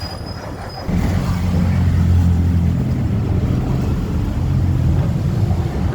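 A large motor vehicle's engine running close by: a low, steady sound that comes in suddenly about a second in and stays loud.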